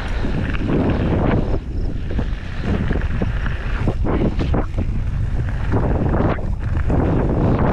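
Wind buffeting the microphone while riding a mountain bike down a dirt jump trail, with frequent short knocks and rattles from the bike over the bumps.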